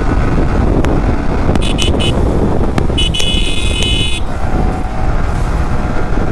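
Riding noise of a Yamaha R15 V3's 155 cc single-cylinder engine, with wind on the microphone as a steady low rumble. A vehicle horn honks twice over it: a short toot a little under two seconds in, then a longer one of about a second.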